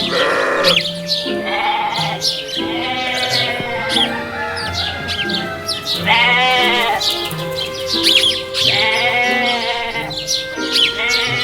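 Sheep bleating several times, in long quavering calls, over background music.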